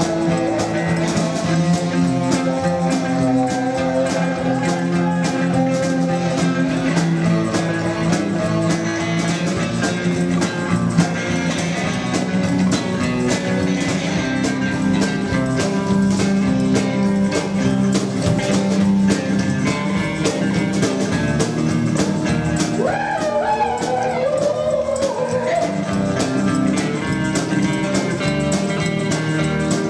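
Live rockabilly band playing a 1950s-style rock 'n' roll number: guitar, double bass and drums keeping a steady beat.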